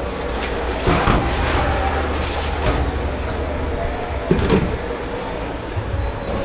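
Dish-pit washing-up: a water spray hisses from shortly in until just under three seconds in, over a steady low machine hum, with a couple of sharp knocks of dishes or utensils.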